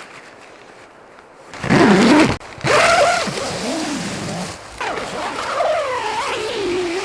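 Strong blizzard wind gusting, starting suddenly after about a second and a half and then blowing with a whistling tone that rises and falls in pitch.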